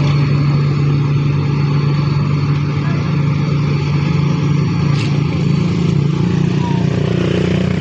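Heavy diesel engine running steadily at a constant speed with a deep, even hum.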